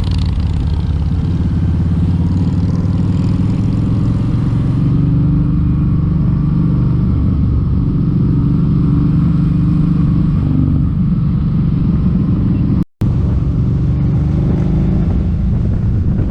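Kawasaki Vulcan 1700 Vaquero V-twin motorcycle engine running steadily while riding, a loud low drone with rumble. The sound cuts out for an instant about 13 seconds in.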